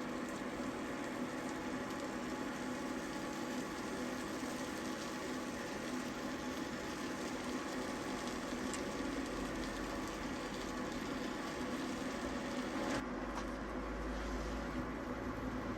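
Steady mechanical hum with a faint hiss, like a running household appliance. Near the end it changes abruptly to a deeper hum with less hiss.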